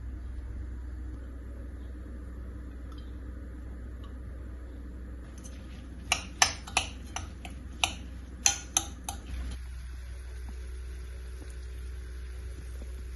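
Dishes and cutlery clinking: a quick run of about eight sharp, ringing clinks over some three seconds in the middle, over a steady low hum.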